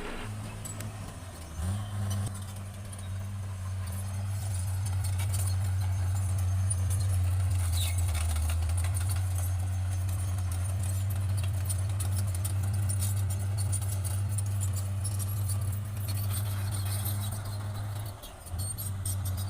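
Bulldozer's diesel engine running at a steady low pitch, with many irregular clicks and rattles over it. The engine note shifts briefly just after the start and again near the end.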